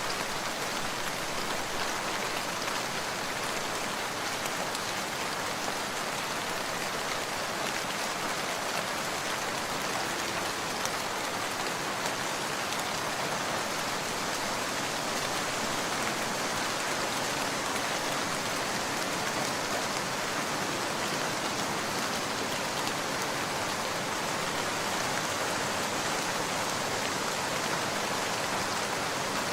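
Steady rain falling in an even hiss, with no thunder.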